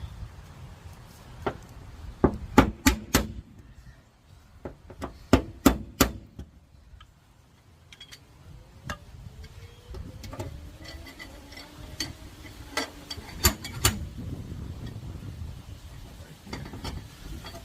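Hammer tapping on the dented rear body metal of a Honda Pilot to straighten out collision damage: sharp metallic strikes in short clusters of two to four, with pauses between.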